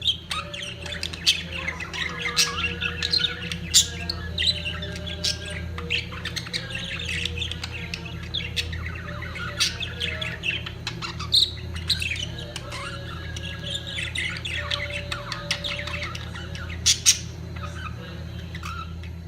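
Budgerigars in breeding condition chattering and warbling without pause, with many sharp chirps and squawks, over a steady low hum.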